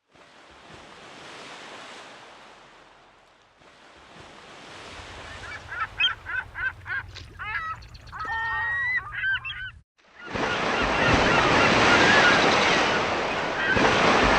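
Ocean surf: waves washing in, swelling and fading, then breaking loudly and steadily for the last few seconds. In the middle a quick run of short honking calls rises above the surf.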